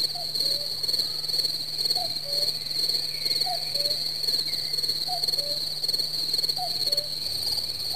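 A bird repeating a two-note falling call about every one and a half seconds, over a steady high-pitched insect trill, with a few faint chirps from other birds.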